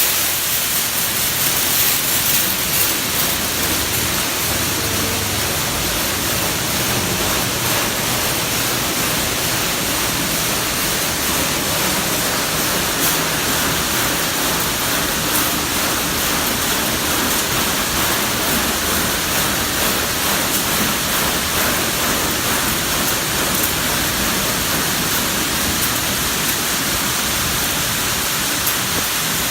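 High-pressure water jets of a touch-free automatic car wash spraying over a car, a loud, steady hiss of water.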